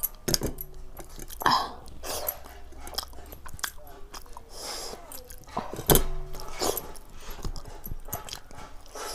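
Chewing and wet mouth sounds of a person eating by hand, with irregular short smacks and clicks, the loudest about six seconds in.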